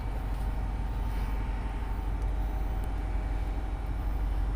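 Steady low rumble of a tugboat's engine running while the boat is under way, heard on board.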